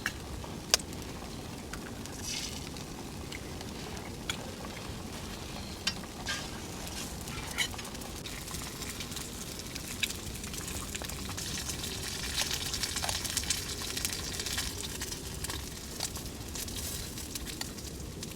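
Campfire cooking sounds: a steady sizzling hiss with scattered sharp crackles and pops, the sizzle growing denser a little past the middle.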